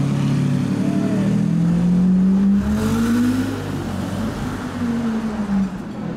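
Supercar engine accelerating hard, its note climbing steadily for about two and a half seconds, then breaking off with a short burst of noise and settling back to a lower, wavering note.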